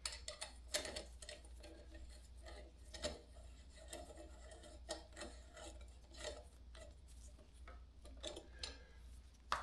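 Faint, scattered small metallic ticks and rubbing of a hex wrench turning the bolts of a bicycle crank arm.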